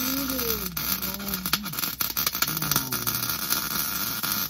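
Wire-feed (MIG) welding arc crackling steadily while a bead is run on a cracked truck part. A man hums a few low, wavering notes over the first three seconds.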